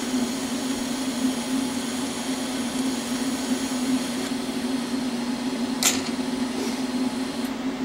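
TIG welding arc giving a steady high hiss while tacking steel plate, starting just before and cutting off near the end, with a sharp click about six seconds in, over a constant low hum.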